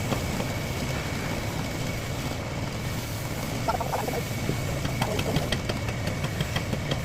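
A machine running steadily with a low hum and a thin, constant high whine, with light ticking in the second half.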